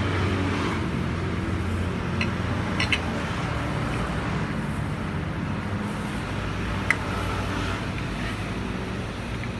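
Steady hum of road traffic, with a few sharp clicks about two, three and seven seconds in.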